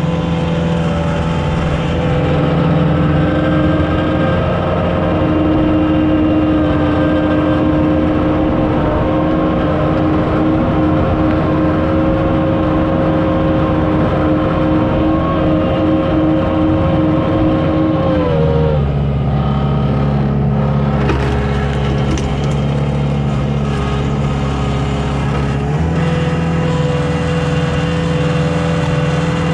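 Komatsu CK30 skid steer's diesel engine running steadily while it works the log splitter. About two-thirds of the way through, the engine note drops lower for roughly seven seconds, then rises back to its earlier pitch.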